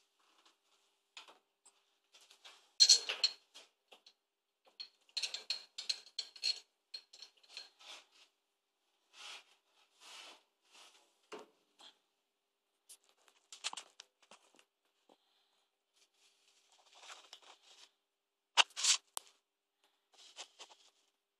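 Scattered light clicks, taps and scrapes from small objects being handled. The loudest come about three seconds in and again near nineteen seconds. No machine is running.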